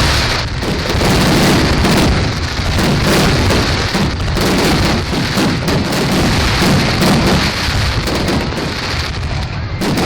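A fireworks display going off in a dense, unbroken barrage of bangs and crackling, with many reports close together.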